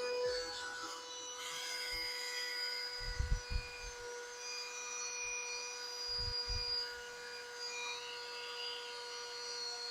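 Small handheld cordless vacuum cleaner running with a steady high-pitched whine as it sucks up scraps of paper. Low bumps come twice, about three and six seconds in.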